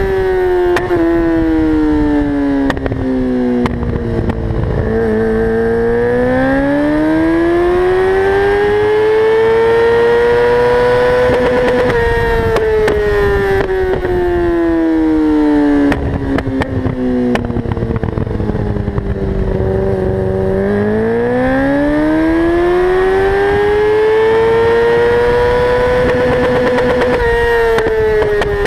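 2004 Yamaha R6's inline-four engine through a full Akrapovic Evolution exhaust, its revs sweeping slowly down and back up twice, with crackling backfire pops from the exhaust throughout.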